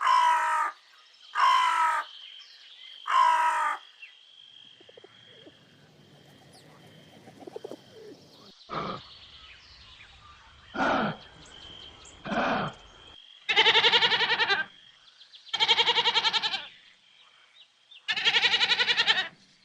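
A series of animal calls: three short calls falling in pitch, then after a faint noisy stretch three brief separate calls, and finally three longer harsh calls of about a second each.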